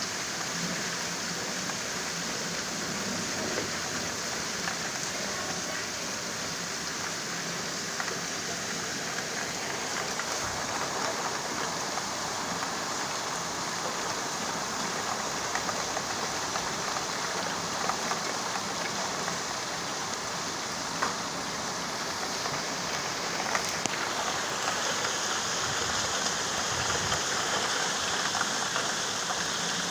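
Steady rain falling, an even hiss of drops with a few faint ticks of single drops standing out.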